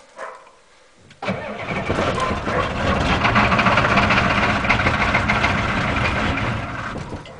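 Starter cranking the cold 1987 Ford F250's 6.9L IDI diesel at full throttle without it catching. It starts abruptly about a second in, runs steadily for about six seconds, then dies away. This is a cold start after five months in freezing weather, and the owner suspects gelled No. 2 diesel.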